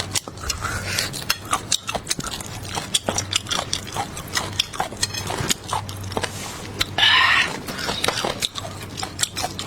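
Close-miked wet mouth sounds of eating beef bone marrow: rapid chewing clicks and lip smacks, with one loud slurp about seven seconds in.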